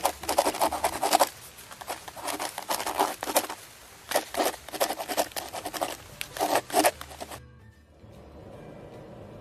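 Irregular scratching and rustling that stops about seven and a half seconds in, leaving a faint low hum.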